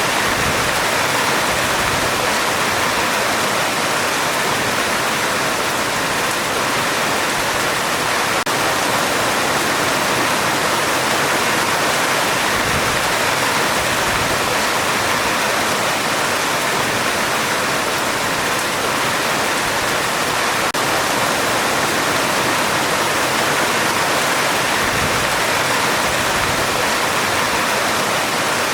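Heavy rain drumming steadily on a metal roof, an even, unbroken hiss with no thunder.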